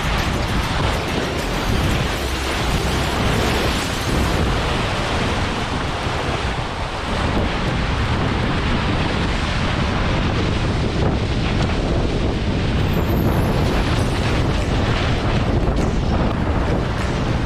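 Strong wind buffeting the microphone over rushing sea water aboard a Mini 650 racing sailboat in heavy weather, a dense, steady noise with no distinct knock or crack standing out. The boat is broaching in the gusts.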